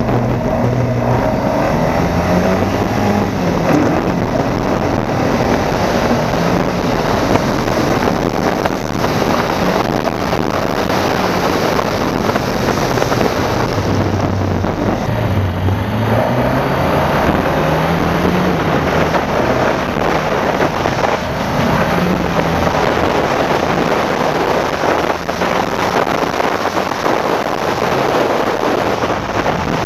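Ford Escort rally car's freshly built 2.0-litre Ford Pinto inline-four on throttle body injection, driven hard, its revs climbing and dropping again and again.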